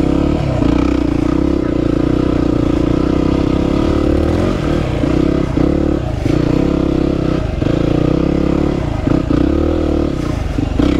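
Yamaha WR250R's single-cylinder engine pulling hard at steady revs through deep soft sand. From about four seconds in, the note dips briefly and recovers several times.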